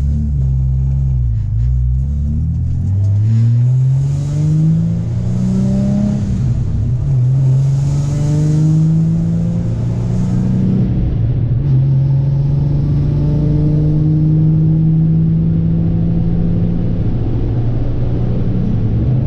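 Supercharged Nissan 350Z's VQ35 V6 running through an ISR single-exit exhaust with non-resonated test pipes, pulling away with its note rising, dropping back at two upshifts about six and eleven seconds in, then holding a steady cruise.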